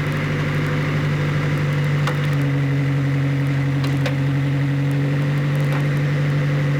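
A vehicle engine idling steadily, with a higher hum joining its note about two seconds in.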